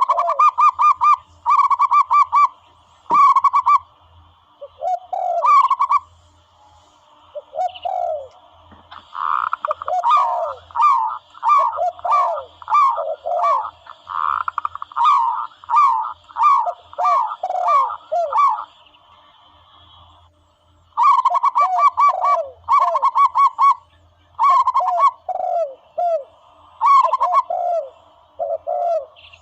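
Dove calls played as a hunting lure: quick series of short cooing notes repeated in bursts, lower and higher notes overlapping as if from more than one bird, with a short lull about two-thirds of the way through.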